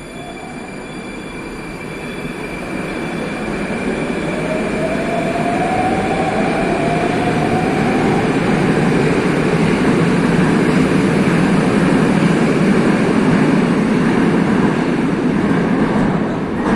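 Moscow Metro train running at a station platform. It grows louder over the first several seconds, with a whine rising in pitch, then holds at a steady loud rumble.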